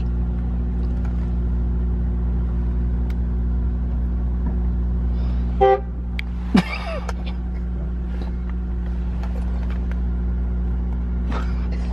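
Car engine idling, a steady low hum heard from inside the cabin, with a short horn toot about six seconds in and a brief falling sound just after it.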